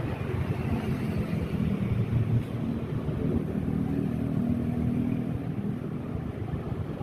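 Motorcycle engine running while riding, its low hum steadiest and loudest in the middle, with wind rumbling on the microphone.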